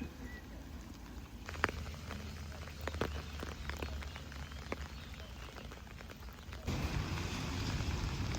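Rain falling, with a few separate drips ticking. About two-thirds of the way in the rain suddenly becomes louder and denser.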